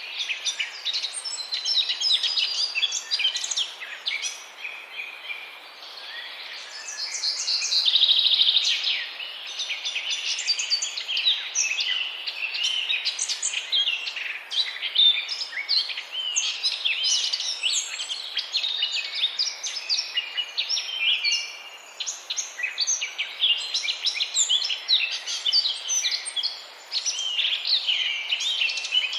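Many small birds chirping and singing at once, a dense chorus of short high calls and quick rising and falling notes that overlap without a break, with a louder held note about eight seconds in.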